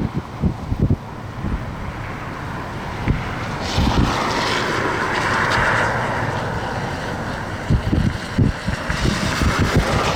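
Strong gusty wind buffeting the microphone in irregular low thumps, with a louder rushing gust swelling about four seconds in and easing off after.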